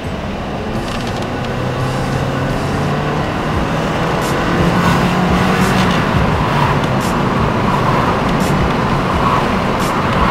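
Toyota Corolla's four-cylinder engine and road noise heard from inside the cabin while accelerating hard in Drive. The engine note climbs with the revs through the first half, then drops back as the automatic transmission shifts up while the car keeps gaining speed.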